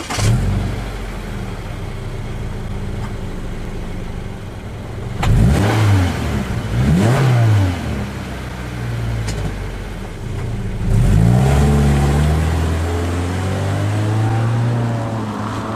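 Subaru Impreza Sport's 2.0-litre flat-four boxer engine heard through its stock factory muffler. It runs steadily at first, is blipped twice about five and seven seconds in, then is revved up from about eleven seconds in and held before easing off.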